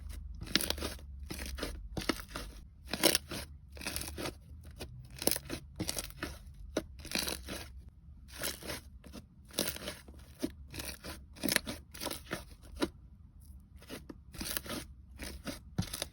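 Slime being played with, giving irregular crackling and popping sounds several times a second.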